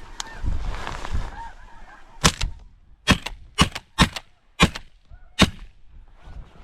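Snow geese honking, with six sharp, loud cracks in quick uneven succession from about two seconds in.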